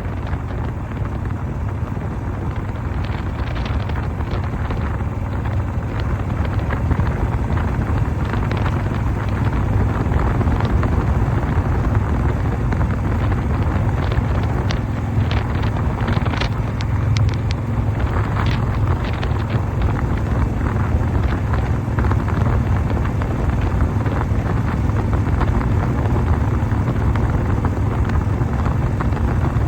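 1988 Harley-Davidson Softail's Evolution V-twin running steadily while under way, with heavy wind buffeting on the microphone.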